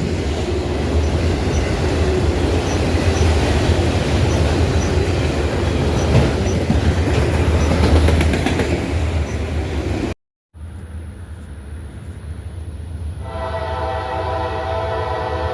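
Freight train passing close, its cars and wheels giving a loud steady rumble. After a cut, a train's air horn starts about thirteen seconds in, a steady multi-note chord held to the end.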